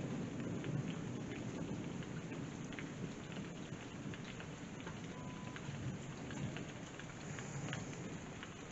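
Rain falling steadily with scattered drips ticking, over a low thunder rumble that slowly dies away.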